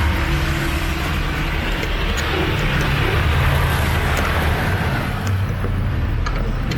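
City street traffic on wet roads: motor vehicles running past over a steady rushing noise, with a few faint ticks.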